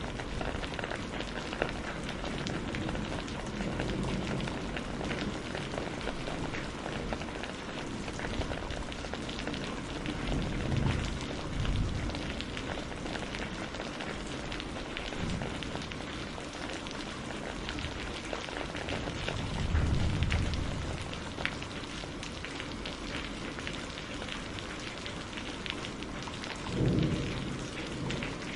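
Steady rain on a greenhouse roof, with many small drops ticking. Low rumbles swell up and fade several times: about ten and twelve seconds in, again around twenty seconds, and near the end.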